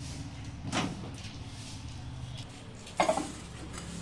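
Two short clunks, the second louder, as a bowl is handled at a microwave oven, over a low steady hum.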